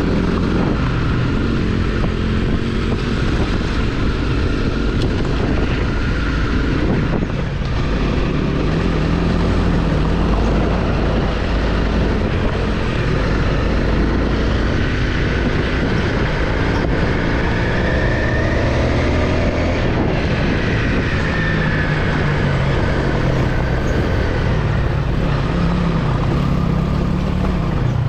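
Off-road dirt bike engine running continuously while being ridden, its note rising and falling as the throttle is worked.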